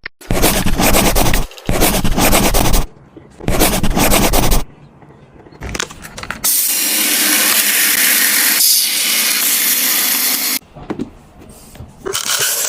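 Close-miked handling of food packaging and containers: three loud bursts of rustling and scraping in the first few seconds, then a steady hiss lasting about four seconds, and lighter clicks and rubbing near the end.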